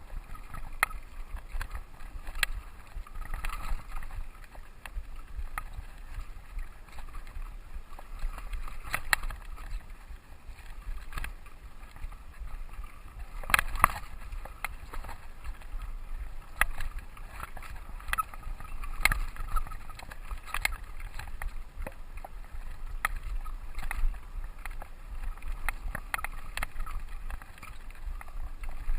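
Mountain bike ridden over a dirt trail, its frame and chain rattling with irregular clicks and knocks over bumps, the loudest about halfway through. A steady low rumble of wind runs on the camera's microphone.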